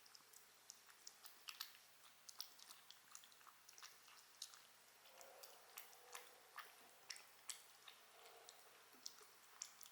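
Close-miked chewing: irregular wet mouth clicks and smacks, a few every second.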